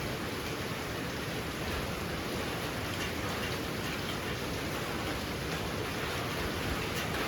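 Heavy rain falling steadily, a dense hiss of drops with faint individual drop ticks.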